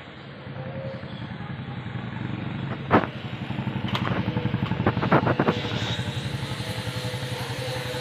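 An engine running steadily with a fast, even pulse. A sharp knock comes about three seconds in, and a quick cluster of metallic clanks follows around five seconds in.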